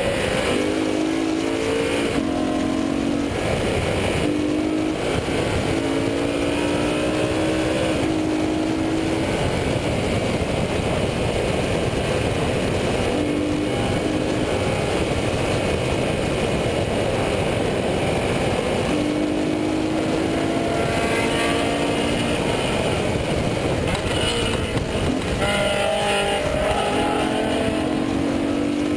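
BMW M3 engine under hard acceleration on track, its pitch climbing again and again and then falling back. Heard from inside the cabin over a steady rush of wind and tyre noise.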